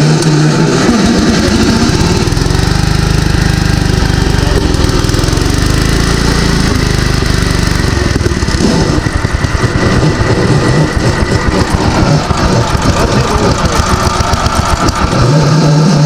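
Gravely garden tractor engine running fast and loud with the mower engaged. It has no working governor, so it runs near wide open. From about halfway through, the sound pulses unevenly. The mower drive sounds dry and rough, which the owner puts down to an unoiled gearbox and a blade that may be loose on its shaft.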